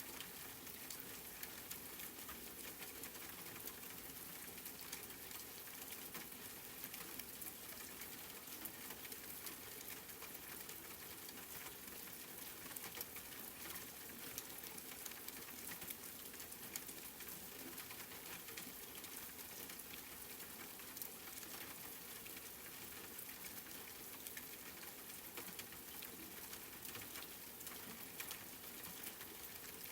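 Steady rain with many small drops pattering, a soft even hiss speckled with fine clicks.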